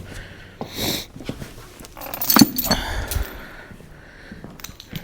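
Rummaging through metal chains and hardware: scattered clicks and a louder cluster of ringing metallic clinks and rattles about two and a half seconds in, with a short breathy sound about a second in.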